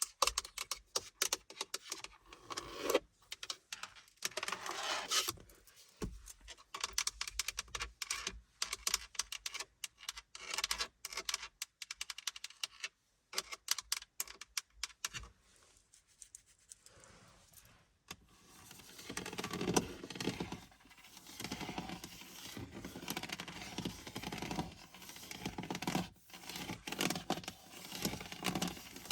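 Tapping and scratching on surfaces inside a car: quick, irregular taps through the first half, then denser, more continuous scratching from a little past halfway.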